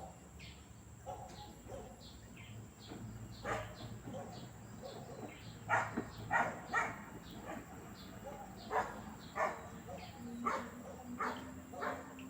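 A dog barking repeatedly in the background, loudest in a quick run of barks mid-way, with birds chirping between the barks. About ten seconds in, a steady low hum starts up, typical of the washing machine's direct-drive motor turning the drum.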